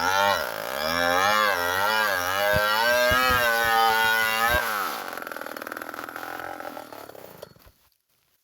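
A two-stroke chainsaw running in a cut, its pitch rising and falling under load, with a few sharp knocks in the middle. About five seconds in it drops to a lower idle, then shuts off near the end.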